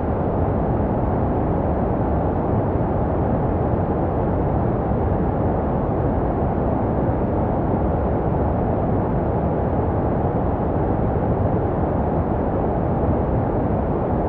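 Steady deep, even noise with little treble and no rhythm or change: a baby sleep white noise track, shaped to resemble the muffled sound a baby hears in the womb.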